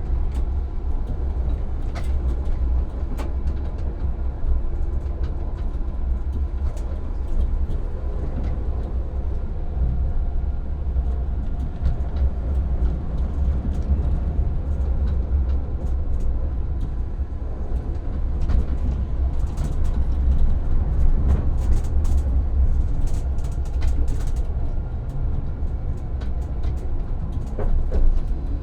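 Tram running, heard from the driver's cab: a steady low rumble with scattered sharp clicks and rattles.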